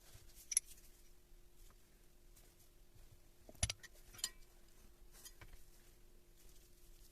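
Quiet workshop handling sounds: three sharp metallic clinks, about half a second in, at three and a half seconds and just after four seconds, with a few fainter ticks, over a faint steady hum.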